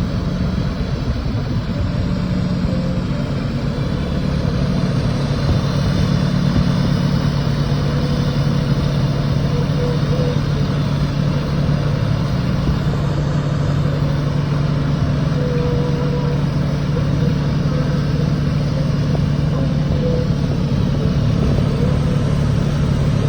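Steady low drone with an even hiss from TIG welding equipment running during an argon root pass on pipe; the sound holds constant throughout without breaks.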